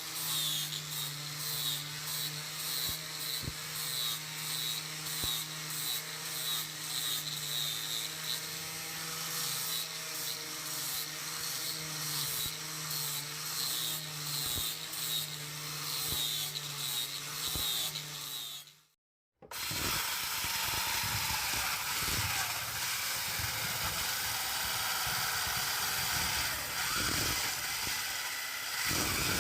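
An electric power tool's motor running steadily under load, with a wavering hum. It stops abruptly about two-thirds of the way through, and after a brief silence a rougher, hissing noise of tool work takes over.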